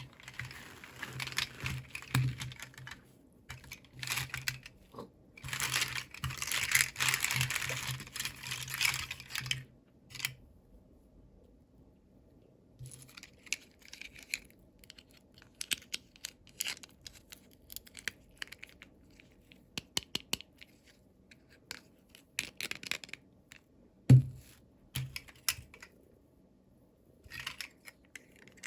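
Packaging crinkling and tearing in two stretches during the first ten seconds. After that, scattered light clicks and taps of small pieces being handled, with one sharper knock near the end.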